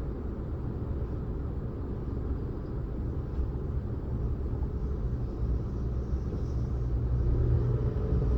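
Car on the move: a steady low rumble of road and engine noise, growing louder over the last couple of seconds.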